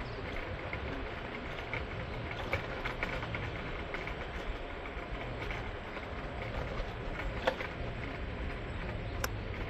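PATH train running on the rails: a steady rumble of wheels and rail noise, with a few sharp clicks and knocks, the clearest about seven and a half seconds in and another near the end.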